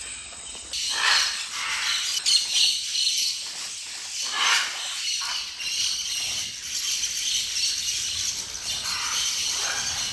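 Flock of scarlet macaws calling: harsh squawks about a second in, around four and a half seconds and again near the end, over a dense high chatter.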